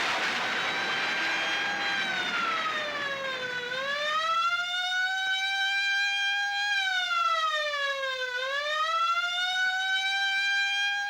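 Emergency siren wailing, its pitch sliding slowly down and back up twice, about one cycle every five seconds, over a rush of noise that fades out in the first few seconds. It sounds the crash alarm on an airfield.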